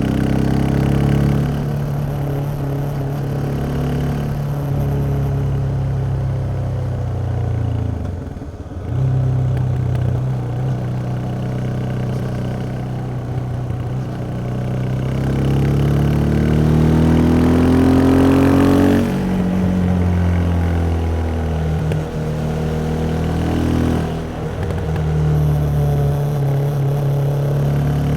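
Yamaha XT 660X single-cylinder motorcycle engine running through its stock exhaust while riding. The engine note holds steady, dips briefly about eight seconds in, then climbs in a long rising rev that drops suddenly near the end of the climb, and settles steady again.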